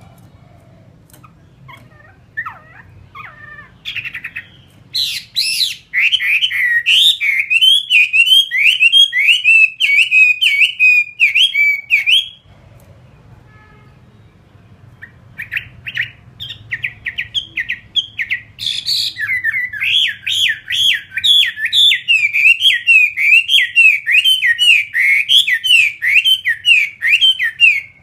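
Chinese hwamei singing: a few scattered notes, then a long bout of fast, repeated whistled notes that breaks off about twelve seconds in, and a second long bout that starts a few seconds later.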